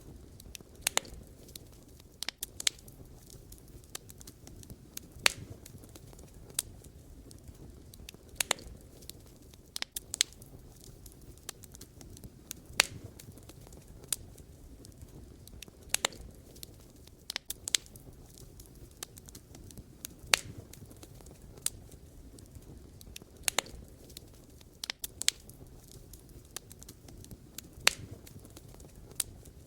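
Wood fire burning, with sharp pops and crackles of burning logs every second or so, some in quick clusters, over a low steady hiss.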